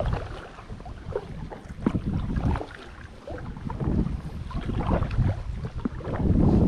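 Kayak paddle strokes splashing and dripping in the water, in uneven swells every second or two, with wind buffeting the microphone.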